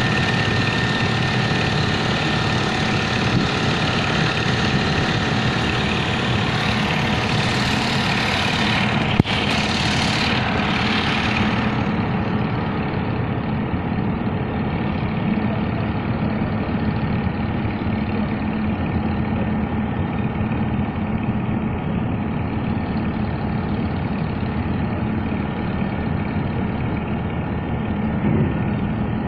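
Heavy engine running steadily at idle. A loud hiss sounds from about six to twelve seconds in, with a single sharp click near its middle.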